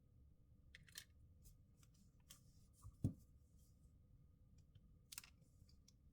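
Faint clicks and a soft knock from small parts being handled on a work surface: a couple of light clicks, one duller tap about three seconds in (the loudest), and another click near the end, over quiet room tone.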